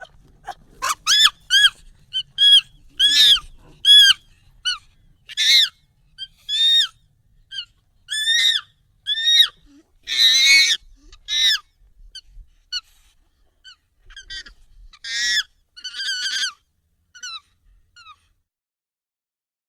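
Monkey calls played sped up and pitched up: a string of short, high calls, each arching up and then down in pitch. The calls come irregularly, thin out and grow fainter over the last several seconds, and stop a little before the end.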